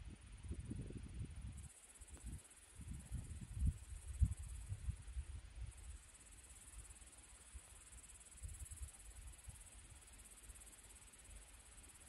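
Crickets chirring in a continuous high trill that swells and eases in stretches, with uneven low rumbles during the first half.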